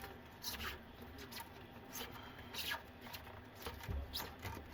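Irregular short scrapes and rustles, about two a second, from plumbing parts being handled and worked on, with a soft knock near the end.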